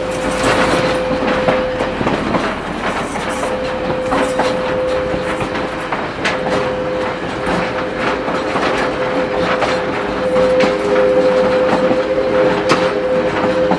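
Passenger railroad car rolling along the track, its wheels clicking over the rail joints over a continuous rumble. A steady tone comes and goes underneath.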